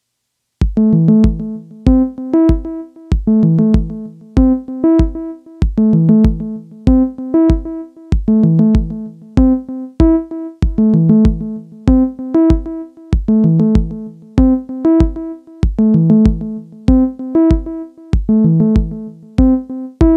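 Synthstrom Deluge groovebox playing a sequenced electronic loop: a kick drum under short, keyboard-like synth chords that repeat in a steady pattern, starting about half a second in.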